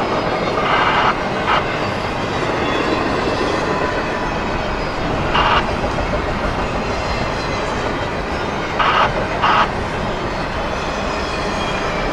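Freight train rolling past: a steady rumble of wheels on rail, with a few short, louder clacks, once about a second in, again in the middle and twice close together near the end.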